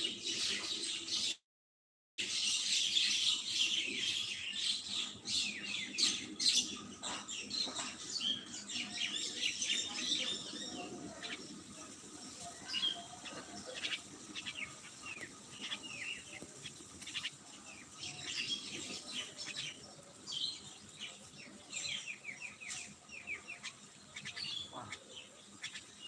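Birds chirping and twittering, many quick chirps at once for the first several seconds, then fewer and more scattered. The sound cuts out briefly about a second and a half in.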